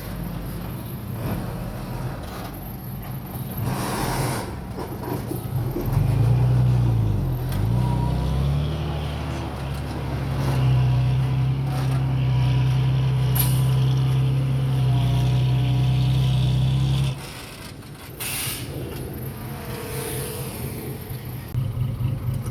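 Heavy diesel engine of earthmoving machinery working under load, with a few brief hisses. Its pitch dips and climbs again a few seconds in, then holds steady and loud before dropping off suddenly, and it picks up again near the end.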